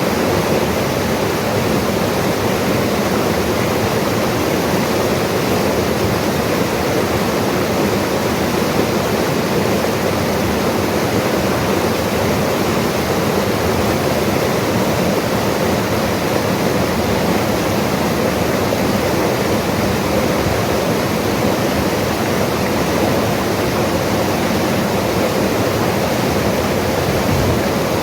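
A mountain river's rushing water, loud and steady without a break.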